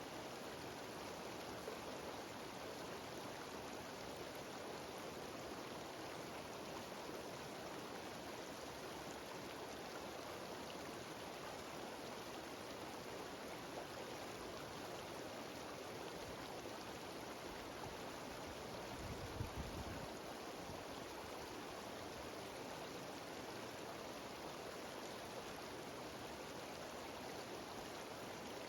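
Mountain stream cascading down a small waterfall: a steady, even rushing of water. A brief low rumble breaks in about two-thirds of the way through.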